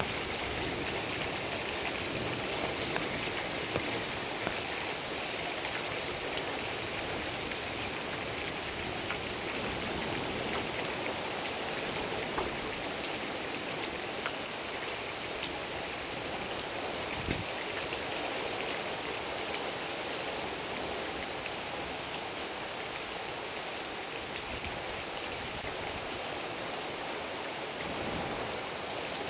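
Heavy thunderstorm rain falling steadily, a dense even hiss with scattered drop ticks and one brief low thump about two-thirds through.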